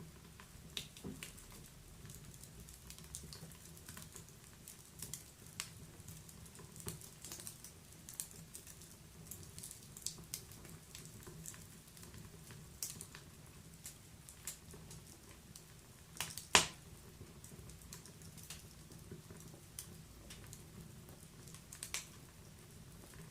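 Wood fire crackling in a fireplace: irregular small pops and snaps over a soft low hiss, with one loud pop about two-thirds of the way through.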